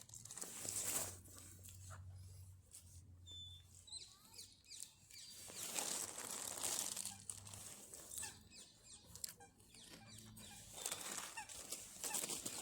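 Bursts of birds' wings flapping and rustling, with short high chirps in between.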